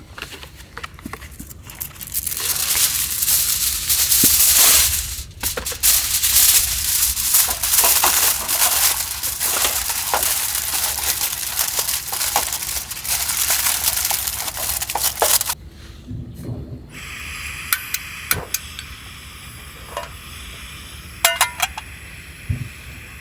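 Food sizzling loudly over the bonfire, with many small crackles. It cuts off suddenly about two-thirds of the way through, leaving a quieter stretch with a few sharp clicks.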